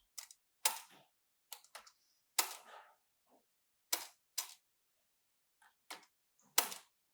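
Irregular sharp clicks and knocks of hard plastic and metal computer parts being handled during a PC build, about a dozen of them with short silences between.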